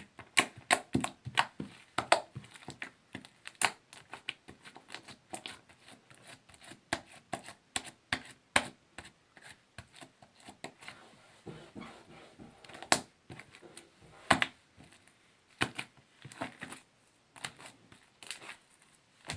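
Homemade slime being squeezed and stretched by hand, making many short, irregular clicks and pops.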